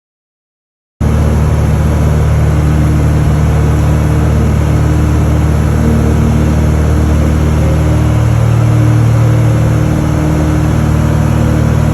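Loud, steady engine-like rumble with a constant low hum that starts suddenly about a second in and cuts off abruptly.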